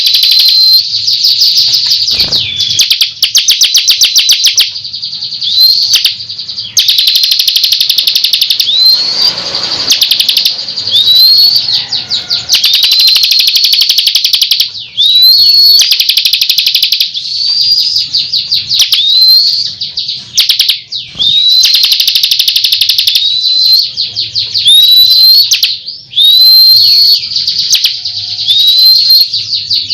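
Bar-winged prinia (ciblek) in full song, loud and almost without pause: fast ticking trills alternate with short, high upswept notes repeated about once a second.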